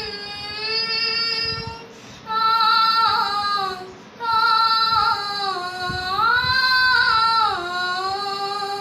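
A girl singing unaccompanied: long, drawn-out wordless notes with slow bends in pitch, in three phrases with short breaks for breath, opening a Bhojpuri folk farewell song.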